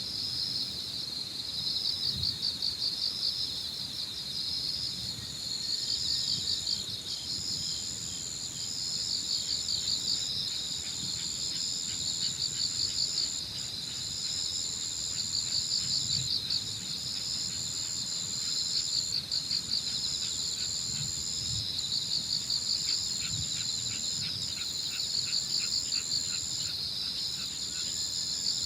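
Evening insect chorus: crickets trilling in short pulsed phrases that repeat every second or two, joined about five seconds in by a steady high continuous buzz from another insect. A light wind rumble runs underneath.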